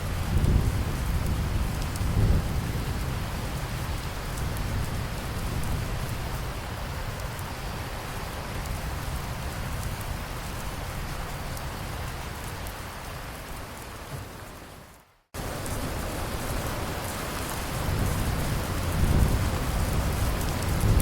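Steady rain falling, with low rolling thunder near the start and again near the end. About two-thirds of the way through, the rain fades to a brief silence and then starts again abruptly.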